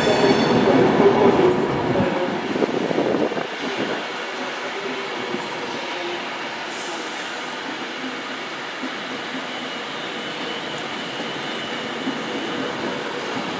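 Class 390 Pendolino electric train running slowly into a terminus platform. It is loudest over the first three or four seconds, with a whine of several steady tones, then settles to a steady quieter hum as it draws to a stop.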